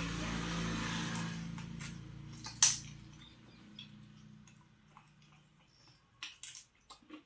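A steady hiss with a low hum that fades away over the first three seconds, a sharp click, then faint scattered clicks and crunches of someone chewing a cooked chicken foot.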